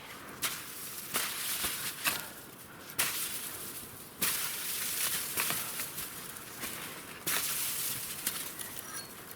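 Crunching and rustling in deep snow, in uneven bursts with sharp clicks, as of snow and brush being worked by hand.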